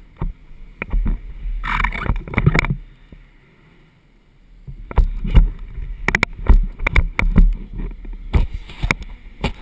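A run of sharp, irregular knocks and bumps over a low rumble, with a brief lull in the middle.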